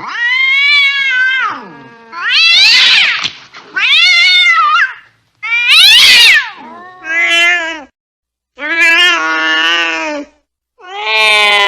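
Angry domestic cat yowling in a string of about seven loud, drawn-out calls, each around a second long, bending up and down in pitch with short breaks between them.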